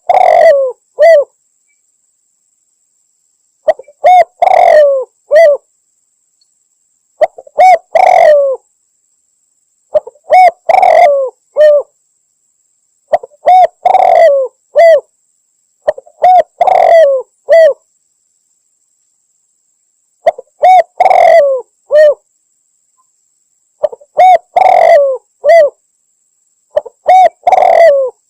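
Spotted dove's cooing call, repeated about every three to four seconds, nine times: each phrase a short note, a longer bending coo and a short closing note, with dead silence between. It is a looped lure recording of a female spotted dove calling a male, used to draw doves in for hunting.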